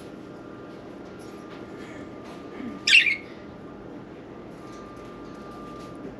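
Budgerigar giving one short, loud, harsh squawk about three seconds in, with a few faint chirps around it and a steady faint hum underneath.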